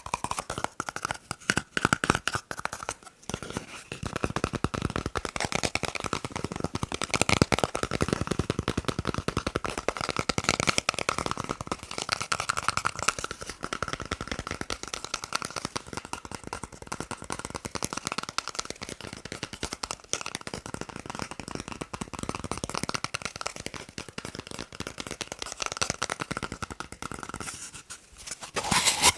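Fast tapping on a paper roll: a rapid, dense run of light taps with papery rustle.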